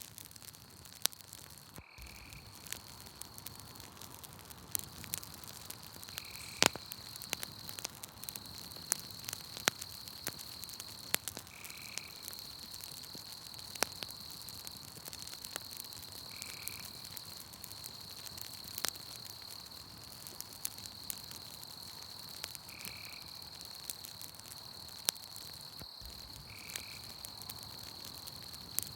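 Campfire crackling with frequent sharp pops, over night forest ambience: a steady high insect trill, and a short animal call repeating about every five seconds.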